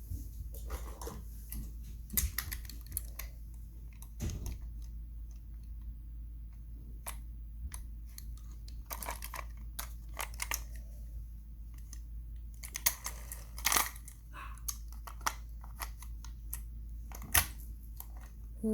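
Toy cars and trucks being handled in play-dough: scattered small clicks and taps over a steady low hum, with the sharpest clicks about two seconds in, a cluster near the two-thirds mark, and one more near the end.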